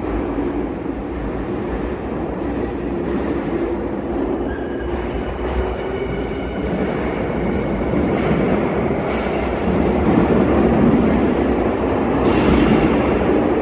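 Minatomirai Line electric commuter train running in an underground station and tunnel. Its rumble grows louder over the last several seconds, with a faint steady motor whine above it.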